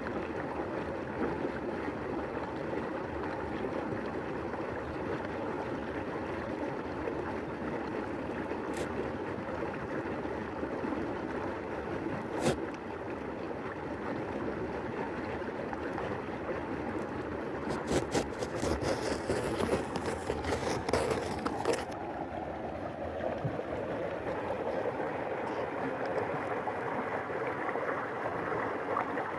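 Flowing stream water heard with the microphone underwater: a steady rushing gurgle. Two single sharp clicks in the first half, and a run of rapid clicks for a few seconds past the middle.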